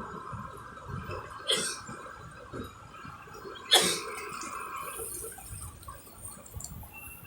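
City street ambience: a steady hum that stops about five seconds in, over faint low rumbling, with two short sharp knocks about two seconds apart.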